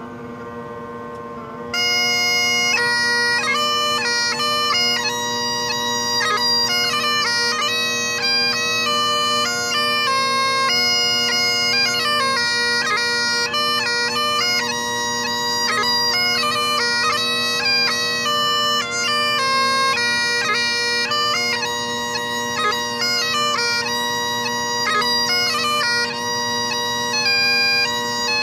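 Bagpipes playing. The drones sound alone at first, then the chanter melody comes in loudly about two seconds in over the steady drone.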